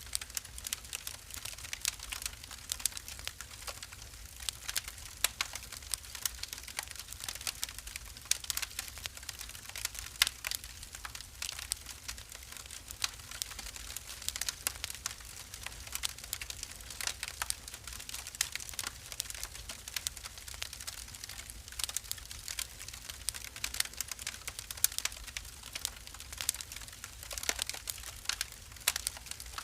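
Wood fire burning in a fireplace, crackling with many small irregular snaps and pops over a faint low rumble.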